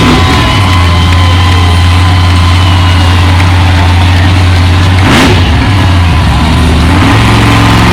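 Monster truck engine running hard at high revs with a loud, steady drone. There is a single sharp bang about five seconds in, likely the truck landing or hitting something, and the engine note shifts after it.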